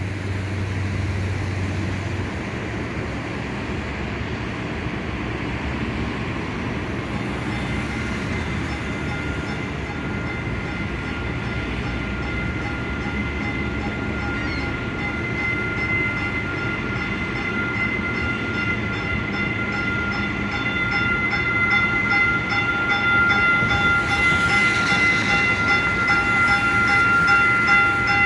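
Stadler FLIRT diesel-electric train approaching and pulling into a station, its running noise growing steadily louder. From about eight seconds in, a steady high squeal of several tones rises as the train slows to a stop, with a burst of hiss near the end.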